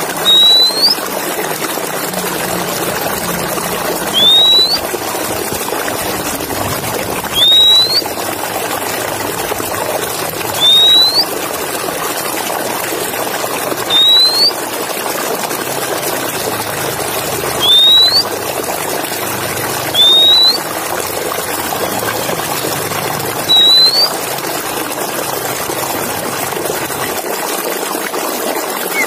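A bird whistling one short rising note, eight times at about three-second intervals, over a steady hiss.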